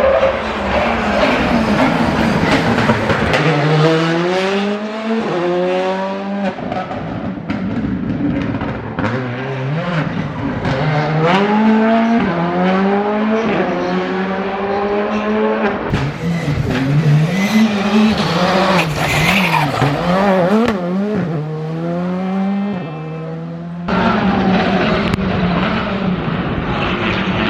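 Skoda Fabia R5 rally car's 1.6-litre turbocharged four-cylinder engine driven flat out, revving up through the gears with repeated rising pitch and drops at each shift and lift, with sharp pops off the throttle. Several separate passes are cut together.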